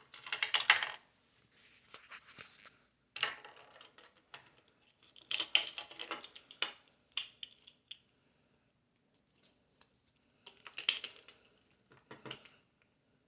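Dry dog food rattling into a small bowl, in four short pours with pauses between.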